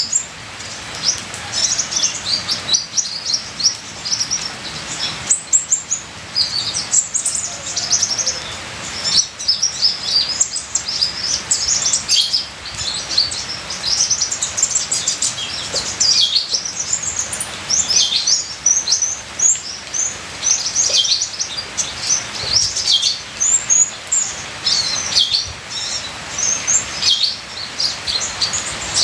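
Sunbird (kolibri ninja) singing: a fast, unbroken run of high, thin chirps and twitters with only brief pauses, over a faint trickle of water.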